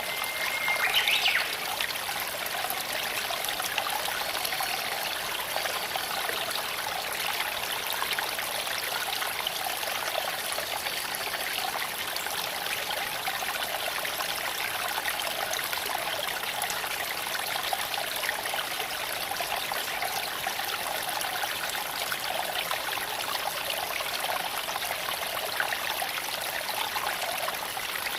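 Creek water flowing and trickling over stones, a steady rushing. About a second in comes a short high chirp that rises in pitch.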